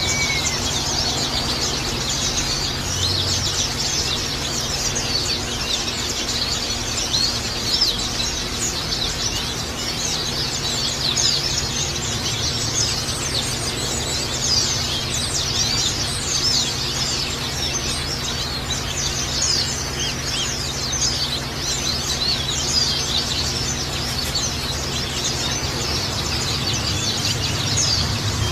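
Small songbirds twittering in a dense, continuous stream of quick high chirps, over a steady background of trickling water and a low hum.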